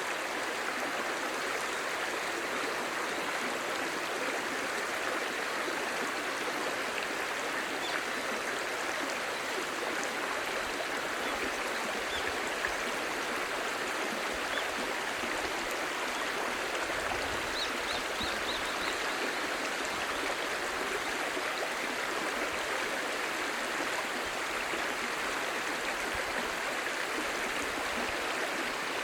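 Clear stream babbling steadily, an even rushing and gurgling of shallow running water with no pauses.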